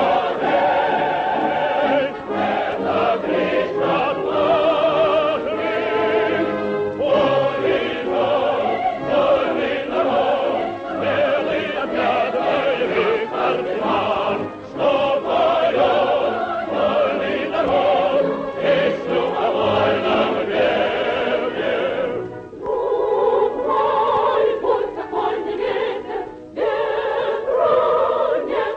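Choir singing in operatic style: long held phrases with strong vibrato, with brief breaths between phrases.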